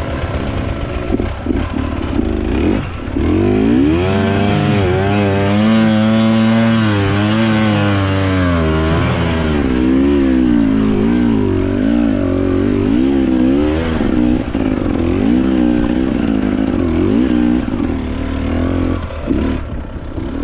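Enduro dirt bike engine revving up and down over and over as the throttle is worked, easing off near the end.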